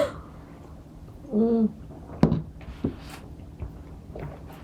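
A short hummed 'mm' of enjoyment about a second and a half in, from someone drinking cola, then a couple of sharp light clicks.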